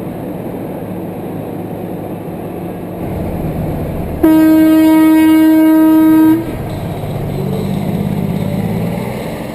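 A semi truck's air horn blasts once for about two seconds on a single steady note, over a low engine rumble.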